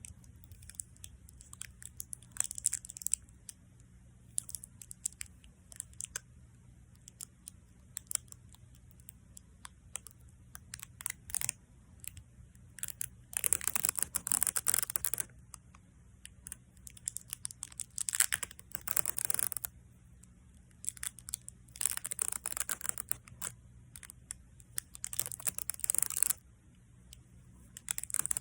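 Adhesive tape being peeled and pressed for ASMR: a run of small sticky crackles and clicks, then several longer crackling peels of a second or two each in the second half.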